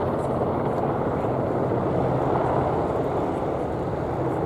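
Boeing AH-64E Apache attack helicopters in a display pass: a steady, even rush of rotor and engine noise with a low hum underneath.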